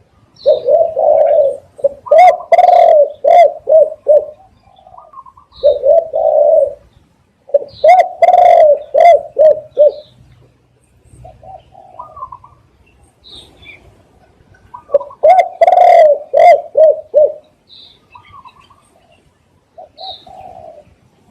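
Spotted dove cooing in three bouts, each a run of several low coos. Faint high chirps from other small birds come between the bouts.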